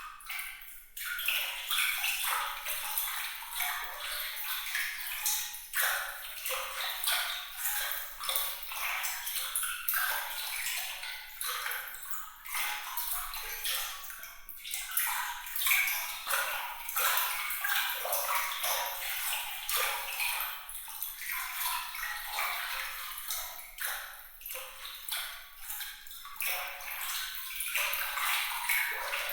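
Water trickling and splashing lightly, with a constant patter of small, bright drips and plinks and no low rumble.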